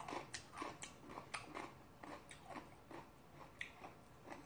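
Close-miked chewing of food, with a run of small wet mouth clicks and smacks, thickest in the first two seconds and thinning out after.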